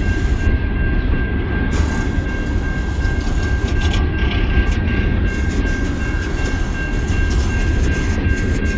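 Freight cars of a coal train rolling past, a steady low rumble with wheel clatter and a thin steady high tone over it.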